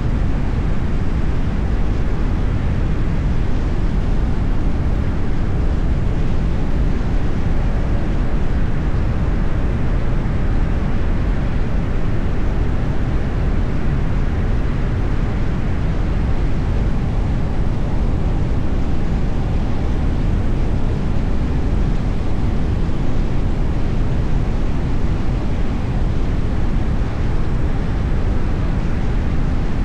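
Steady road noise of a car driving: an even rumble of tyres and engine, deepest in the bass, with no sharp events or changes.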